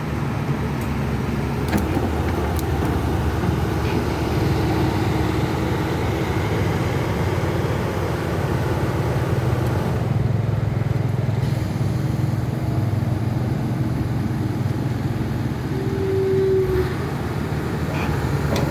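Caterpillar 320C long-reach excavator's diesel engine running steadily, with a brief higher-pitched tone about two-thirds of the way through.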